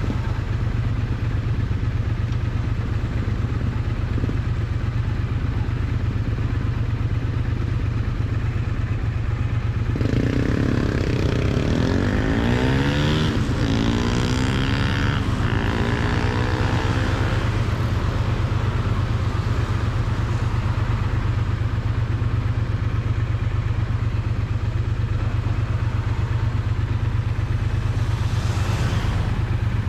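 Triumph Bonneville T100 parallel-twin exhaust running steadily while riding, picked up close to the exhaust. For several seconds in the middle a pitched sound rises and falls over the steady engine note, and a short swell comes near the end.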